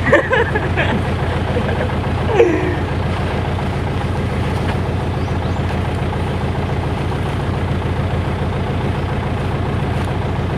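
An engine running steadily with a low, even hum, with a brief voice near the start and again about two seconds in.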